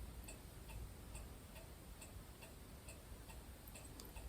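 Clock ticking faintly and evenly, about two ticks a second, over quiet room tone.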